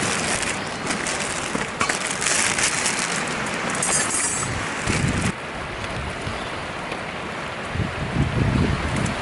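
Wind buffeting the microphone in low rumbling gusts, with scattered small crackles in the first half. The bright hiss drops away suddenly about five seconds in.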